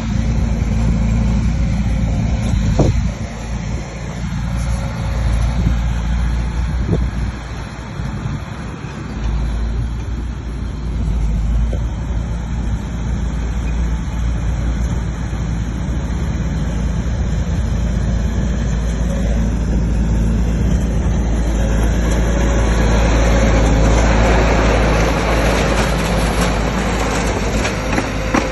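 Bulldozer's diesel engine running steadily at work, with a couple of short knocks about three and seven seconds in. The sound grows louder and harsher over the last several seconds.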